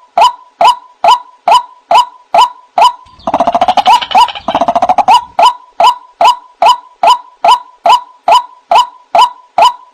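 White-breasted waterhen (ruak-ruak) calls played as a bird-trapping lure: a loud, clipped note repeated about twice a second, with each note dropping in pitch. About three seconds in, the notes give way to a quicker, stuttering run of about two seconds that climbs in loudness, then the steady repeats resume.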